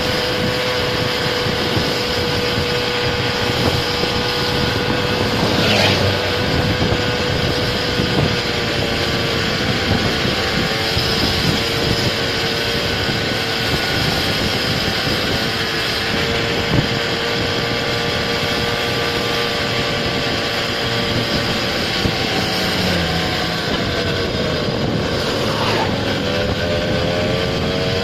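Motor scooter engine running steadily under way, its pitch dipping near the end and then climbing again as it picks up speed.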